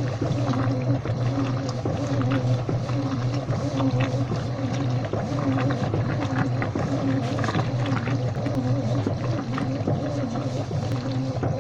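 Washing machine running: a steady motor hum with a wavering whine that rises and falls in a regular cycle, and small clicks throughout.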